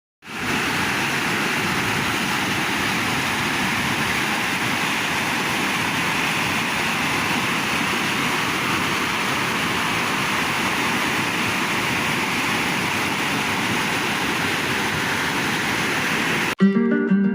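Steady, unbroken rush of a waterfall. Acoustic guitar music comes in near the end.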